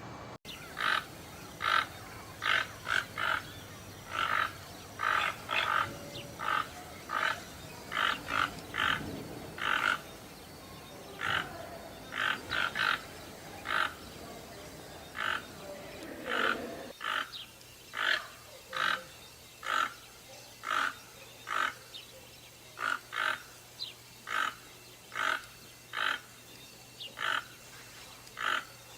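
Toucans calling: a long series of short, harsh, croaking calls repeated about once or twice a second.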